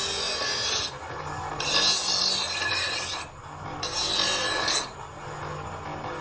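A steel cleaver blade being worked by hand with long abrasive strokes, three scraping passes of about a second each with short pauses between, as in filing or honing the edge.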